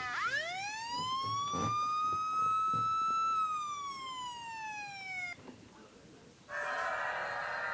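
A siren-like wail: one clear tone sweeps up over about two seconds, holds, then slowly falls and cuts off suddenly about five seconds in. About a second later a different steady buzzing sound starts.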